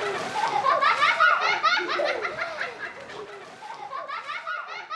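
Children laughing in quick, repeated bursts that grow quieter toward the end.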